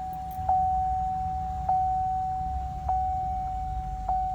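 Dashboard warning chime dinging steadily, about once every 1.2 seconds with each ding fading into the next, over the low idle of a Chevy Silverado's V8 just started.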